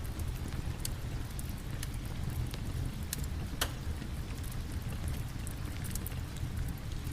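Steady rain with a wood fire crackling over it: a low, even rumble under scattered sharp pops, one louder pop about halfway through.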